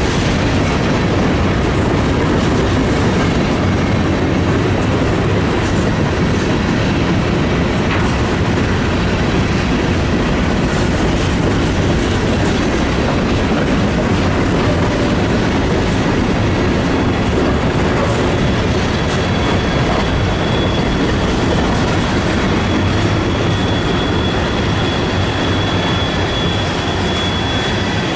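A train rolling past, a steady loud rumble of wheels on rail. A thin high wheel squeal comes in about three-quarters of the way through and holds.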